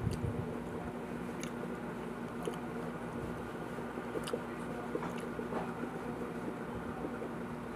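A person chewing crispy fried food close to the microphone, with a few sharp crunches scattered through, over a steady low hum.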